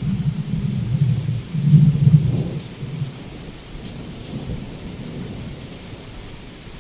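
Heavy rain falling steadily with a rolling rumble of thunder. The thunder is loudest about two seconds in and fades out by about the middle, leaving the rain alone.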